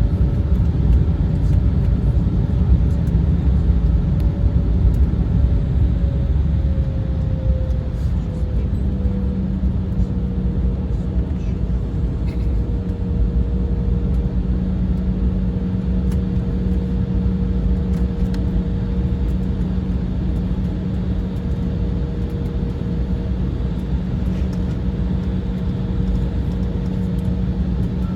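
Cabin noise of an Embraer 175 jet airliner with its turbofan engines running: a steady roar with an engine whine that drops slightly in pitch about a third of the way in, when a lower steady hum joins it and the noise eases a little.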